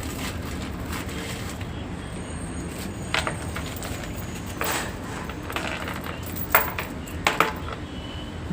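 A handful of short, sharp clicks and knocks, the loudest about six and a half and seven and a half seconds in, over a steady low background rumble.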